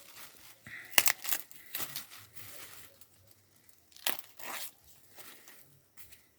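Dry corn husks and leaves crackling and tearing as ears of green corn are handled and checked on the stalk, in sharp bursts about a second in and again about four seconds in.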